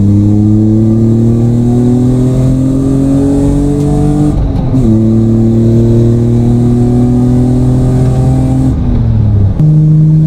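BMW E36 engine and exhaust, its rear silencer freshly packed with wool, heard from inside the cabin while driving: the engine pulls steadily with rising pitch, drops in pitch for an upshift about four and a half seconds in, pulls again, then eases off near the end.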